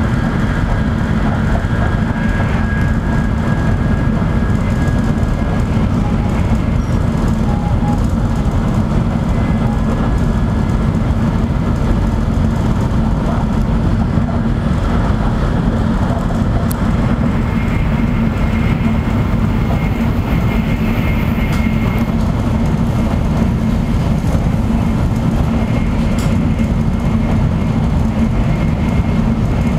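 Steady running noise inside a Shinkansen passenger car at speed: a constant low rumble with a steady hum. A faint high whine shifts up in pitch about halfway through.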